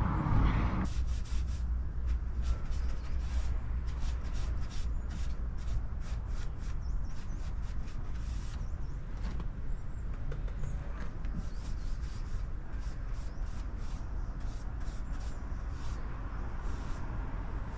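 Paintbrush strokes on a wooden shed door: a swishing rub repeated a couple of times a second, over a steady low rumble. A louder noise stops about a second in.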